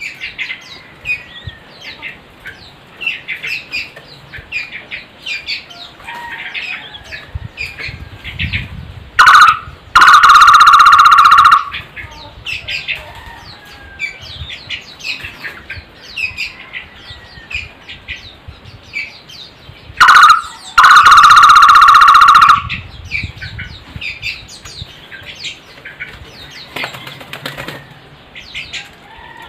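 Takur (barbet) calling twice: each time a short note followed by a loud, steady, held whistle-like note of about a second and a half. Quieter high chirps of other small birds continue throughout.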